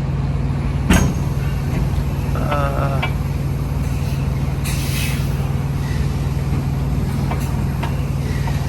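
Semi-truck diesel engine idling steadily while the rig is maneuvered, with a sharp click about a second in and a short hiss of air about five seconds in.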